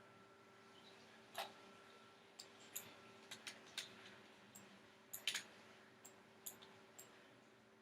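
Computer mouse clicking now and then, about a dozen short, sharp clicks at irregular intervals, over a faint steady hum.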